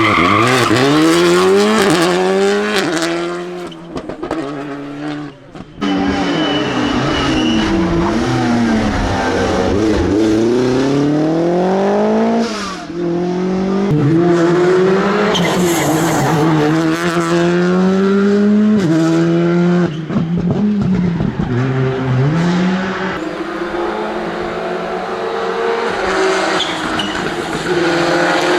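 Rally cars driven hard through mountain-road corners. The engines rev high, their pitch climbing and dropping through gear changes and braking, with tyre squeal. The engine sound breaks off and starts again abruptly a couple of times, about six seconds in and again around twenty seconds.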